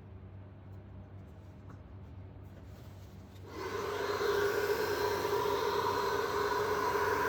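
A handheld hair dryer switches on about three and a half seconds in and runs steadily, a constant whirring hum with a fixed whine.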